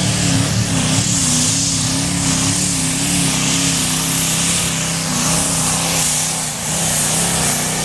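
Competition pulling tractor's engine running loud and steady, its pitch wavering a little, under a heavy high hiss.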